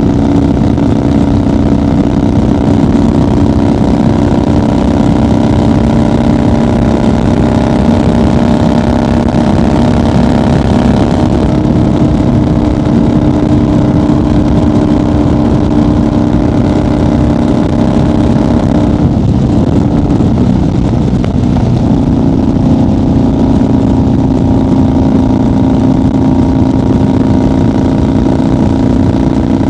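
1990 Harley-Davidson FXR's Evolution V-twin running steadily at highway cruising speed. About twenty seconds in, the engine note breaks briefly and then settles at a slightly different pitch.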